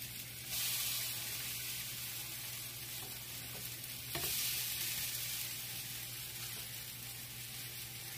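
Zucchini-carrot pancakes frying on an electric griddle, sizzling steadily as they are flipped with a spatula. The sizzle surges louder about half a second in and again about four seconds in, as freshly turned pancakes land on the hot surface; a light spatula tap comes with the second surge.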